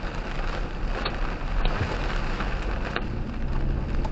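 Nickel-size hail coming down hard in a dense, steady clatter, with a few sharper single hits standing out.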